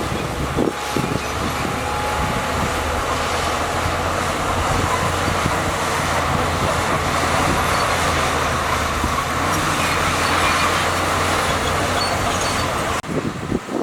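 Heavy diesel earthmoving machinery running steadily, with a low engine drone and the clatter of working gear. The sound breaks off abruptly near the end.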